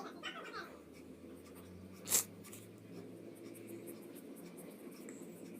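Pencil scratching on paper in short strokes, with one louder, sharper stroke about two seconds in.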